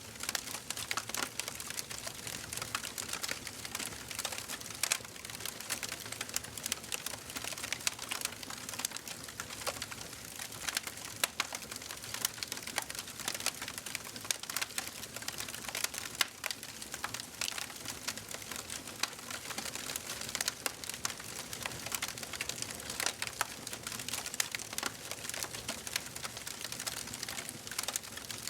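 Wood fire burning in a fireplace, crackling and popping irregularly over a steady soft hiss of flames.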